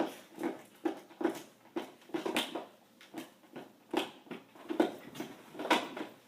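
A dog playing with a toy: a string of short, irregular noises and sharp clicks, a few each second.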